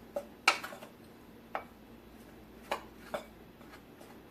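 A utensil knocking against a mixing bowl while stirring a dry flour batter mix, about five separate clinks at uneven intervals.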